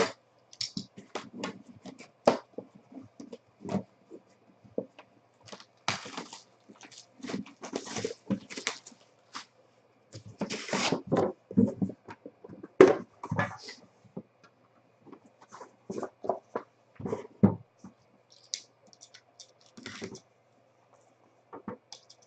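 Packaging of a box of trading cards being torn open and handled: irregular rips and crinkles mixed with sharp taps and clicks.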